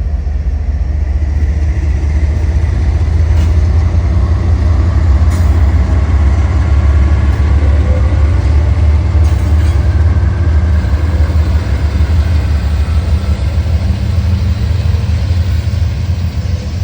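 Freight train passing close by: a loud, steady low rumble.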